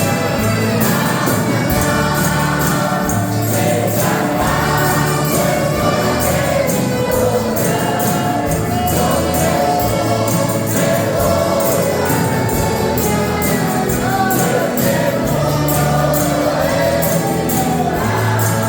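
Choir singing a gospel hymn over instrumental accompaniment, with bass notes and a steady percussion beat.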